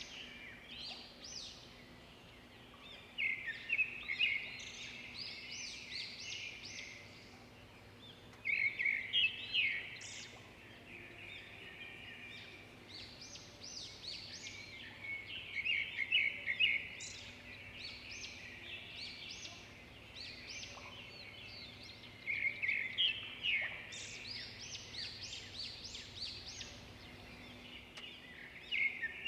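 Zebra finches calling and singing: short, high, chattering notes throughout, with louder bursts of rapid notes every six or seven seconds.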